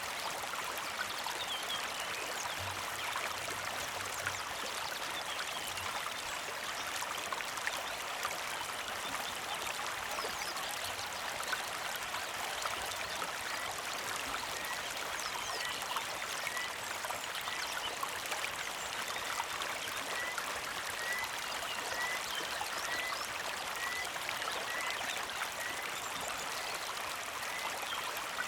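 Small mountain creek flowing and trickling steadily. From about halfway in, a bird repeats a short chirp a little more than once a second.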